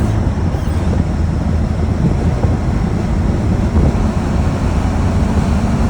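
Land Rover Defender's turbocharged engine pulling steadily in fourth gear, heard from inside the cabin, with a lot of wind and road noise coming through the open windows.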